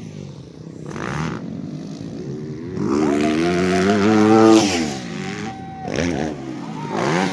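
Motocross bikes revving around the track, one growing louder and rising in pitch to a peak about four and a half seconds in, then dropping in pitch as it goes by; more engine sound follows near the end.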